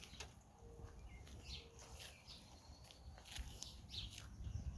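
Small birds chirping faintly in short, scattered calls, over a low background rumble.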